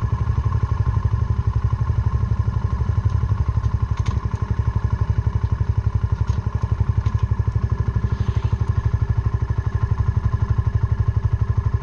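Suzuki Van Van 125 single-cylinder four-stroke engine with an aftermarket Black Widow exhaust, running steadily with an even, rapid pulse while the motorcycle is ridden. A few faint clicks sound about halfway through.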